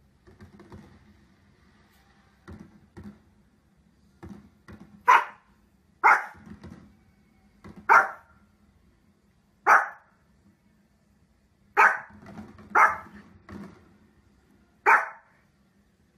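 A Pomeranian barking in single sharp barks, about eight loud ones spaced one to two seconds apart starting about five seconds in, with softer short barks before them.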